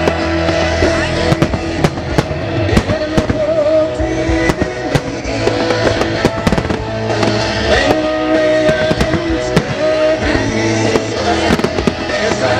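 Fireworks going off in a show synchronised to music: many sharp bangs and crackles of shells bursting, over musical-theatre music playing loudly from the show's sound system.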